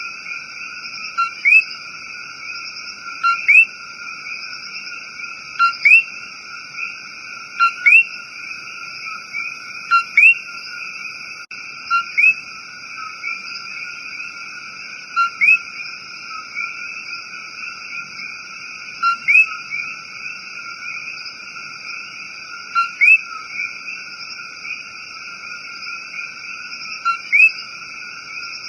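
Coqui frogs calling. A nearby male repeats the two-note "co-qui" every few seconds, a short low note and then a quick rising chirp. Behind it runs a dense, steady chorus.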